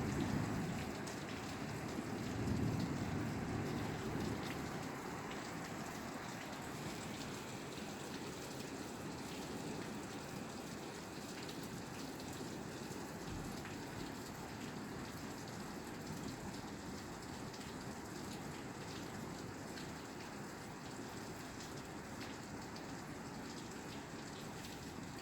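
Steady rain falling on a roof, an even patter of drops. A low rumble in the first few seconds fades away.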